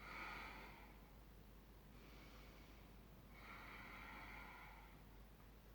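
Faint breathing of a woman holding an exercise position: a breath right at the start, a weaker one about two seconds in, and a longer one from about three to five seconds in.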